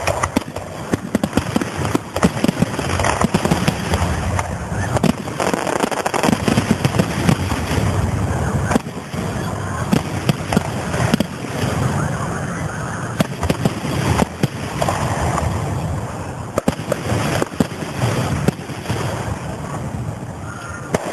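Fireworks going off at a public display: a dense, unbroken run of sharp bangs and crackles, one report after another with hardly a pause.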